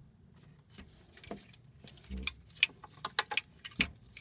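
Irregular metal clicks and knocks, with a heavier thump about two seconds in and another near the end, as a loosened alternator is wiggled free of its mounting on a Toyota 1ZZ engine.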